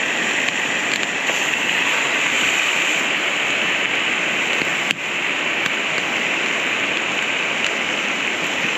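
Creek water running over rocks in a steady rush, with a single sharp click about halfway through.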